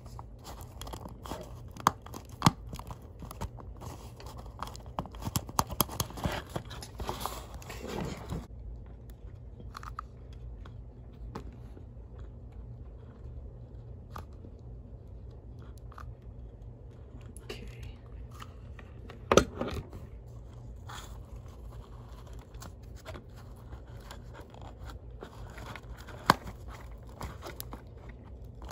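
Handling noises from reassembling a Gemmy Abominable Snow Monster animatronic toy: scraping and rustling with scattered sharp plastic clicks. These are busiest in the first eight seconds, with a louder knock about nineteen seconds in and another click near the end.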